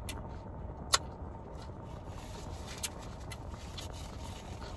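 Close-miked chewing of kale salad, with a few sharp crunchy clicks, the loudest about a second in, over a steady low rumble.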